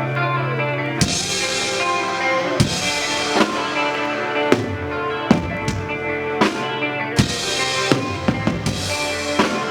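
Live band playing an instrumental passage of a song: held guitar and bass tones, with the drum kit coming in about a second in on kick, snare and cymbal hits.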